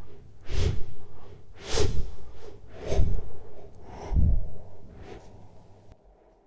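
A series of loud, rhythmic whooshes with a low thud in each, about one every 1.2 seconds, stopping about six seconds in.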